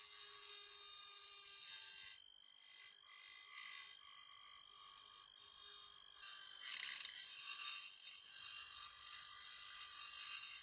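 Small high-speed power tool running steadily with a high whine and scraping during rust removal on old metal, easing briefly about two seconds in.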